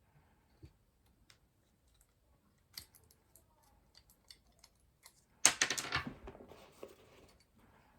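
PC hardware being handled while a graphics card is fitted: scattered light clicks, then a loud burst of clattering clicks and rustling about five and a half seconds in that dies away over the next two seconds.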